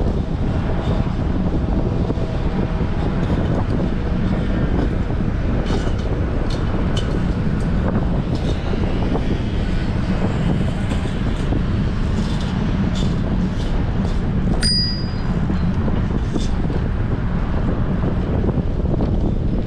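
Strong wind rushing over the microphone of a GoPro on a moving bicycle, with scattered light clicks and a single short bicycle bell ding about fifteen seconds in.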